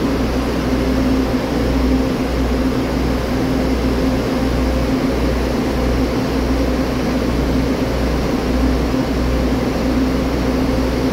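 Passenger train standing at the platform and idling, giving a steady machine hum with a pulsing low rumble.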